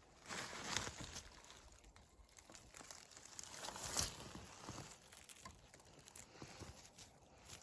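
Footsteps crunching and rustling through forest-floor litter and undergrowth, in uneven surges, loudest about half a second in and again around four seconds in, with scattered small snaps.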